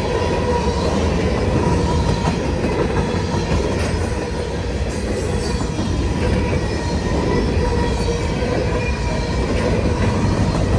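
Freight cars of a CN freight train rolling steadily past, with a thin, steady wheel squeal over the rumble of the wheels.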